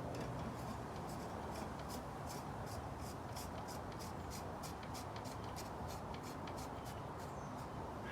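Oil filter housing cap being screwed back into the filter housing of a 3.6-litre V6, with light, evenly spaced clicks about three times a second as it turns.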